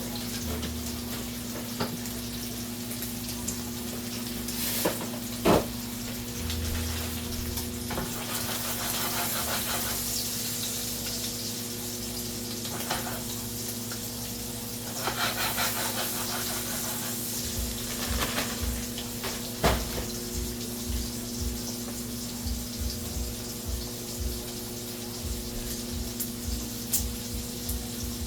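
Kitchen cooking sounds: a steady electrical hum under a light hiss, with scattered clicks of utensils and cookware and, over the second half, a run of short, soft low knocks.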